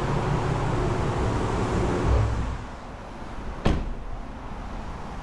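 Steady rushing car-wash noise that drops away about two and a half seconds in, followed a second later by a single sharp knock, a door or panel shutting.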